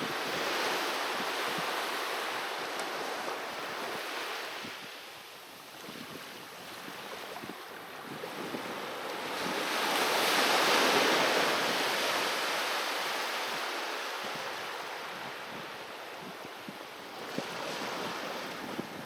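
Sea waves breaking and washing up on a beach, the surf swelling and ebbing in slow surges, loudest about ten seconds in.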